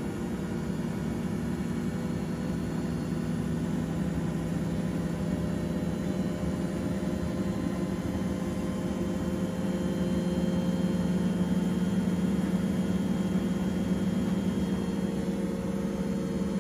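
Washing machine motor running steadily with a low hum and whir, getting a little louder about ten seconds in.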